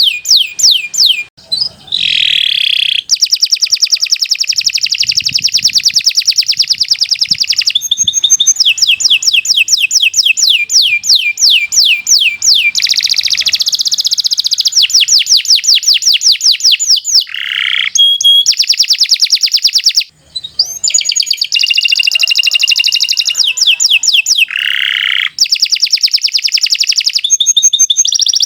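Domestic canary in full song: a long, nearly unbroken run of fast trills, each made of rapidly repeated downward-sweeping high notes, switching to a new trill every few seconds.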